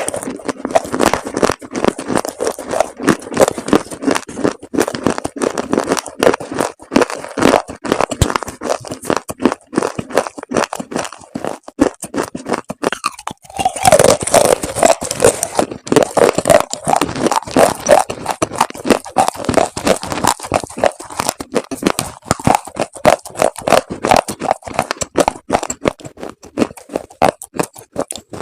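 Dried chalk paste being crunched: a dense, continuous run of crackling crunches, with a brief pause about 13 seconds in before the crunching resumes.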